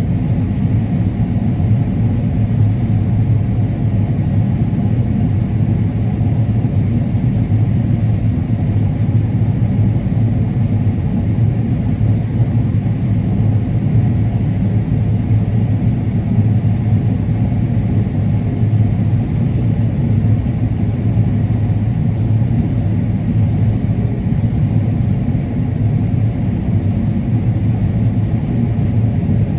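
Combine harvester running steadily while harvesting corn: a loud, even low rumble that does not change.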